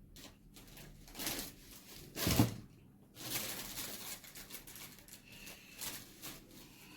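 Close-miked eating sounds: a person chewing and smacking on a mouthful of rice and meat curry, in irregular short bursts. The loudest burst comes about two and a half seconds in.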